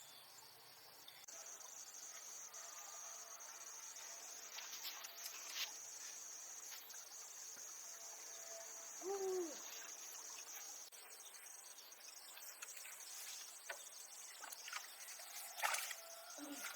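Insects trilling steadily at a high pitch, coming in about a second in and fading out about two thirds of the way through. A short call that rises and falls comes near the middle, and a few sharp knocks come near the end.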